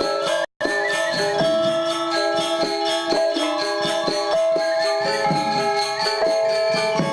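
Balinese gamelan gong ensemble playing a classical lelambatan piece: bronze metallophones and gongs strike ringing, sustained tones in a busy interlocking pattern over a steady high metallic shimmer. The sound cuts out completely for a split second about half a second in.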